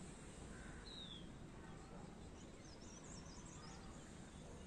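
Faint steady background hiss with a few distant bird calls: a short falling whistle about a second in, then a quick run of high chirps around the middle.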